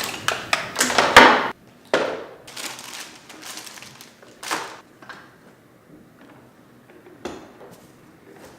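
Gear being handled and knocked about: a quick run of clattering knocks over the first second and a half, then a few separate thumps.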